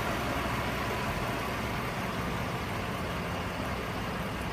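A vehicle engine idling steadily, with a low even hum under a steady rushing noise.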